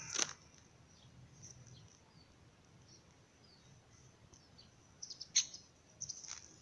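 Faint bird chirps over quiet outdoor background. About five seconds in come a sharp click and a few short, high-pitched scuffs.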